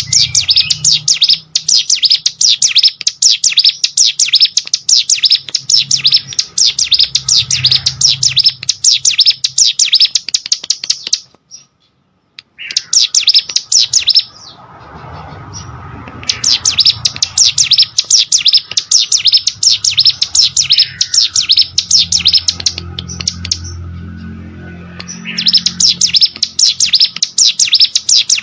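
Plain prinia (ciblek sawah) singing: long runs of rapid, high repeated notes, broken by a few short pauses.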